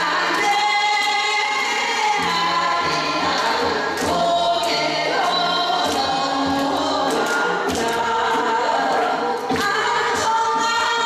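Singing with a steady musical accompaniment and frequent sharp percussion strikes, held notes running through without a break.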